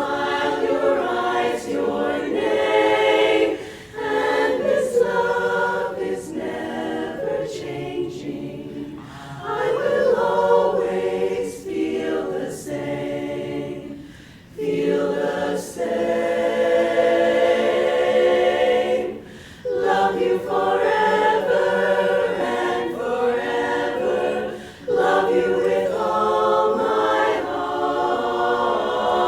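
An a cappella chorus singing in close harmony, in sung phrases a few seconds long separated by brief breaths.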